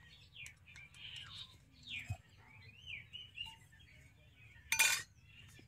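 Small birds chirping and twittering in short, gliding calls, with a brief clatter about five seconds in.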